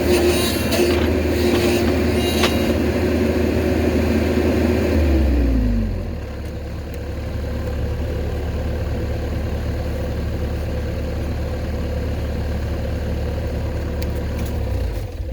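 Cat 304CR mini excavator's diesel engine running. About five seconds in, its speed drops from a higher throttle to a steady idle. It stops near the end.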